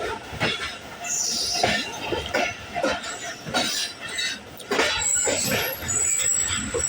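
Railway train noise: irregular metallic knocks and clanks of rail cars, with a brief high wheel squeal about a second in and a thin, high steady whine from about five seconds in.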